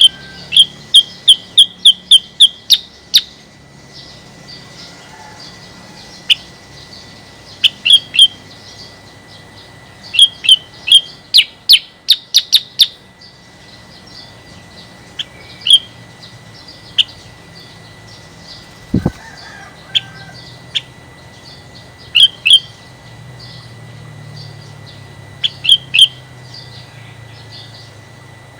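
Female kutilang sutra bulbul calling: sharp, clipped chirps repeated in quick runs of several notes, with pauses of a few seconds between runs. The female's call, used as a lure to set other kutilang sutra singing.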